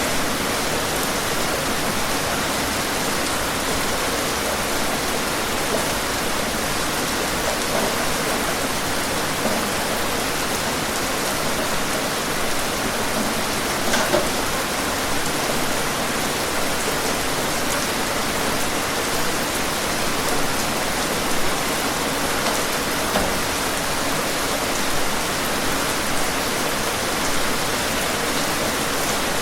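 Steady rain falling in an even hiss, with a few sharper drop hits now and then, the loudest about halfway through.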